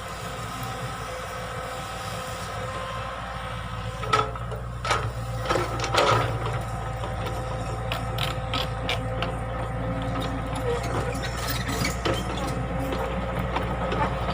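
Excavator engine running steadily, with sharp metallic clanks and rattles from the machine's moving parts, loudest in a cluster about four to six seconds in and lighter clicking after that.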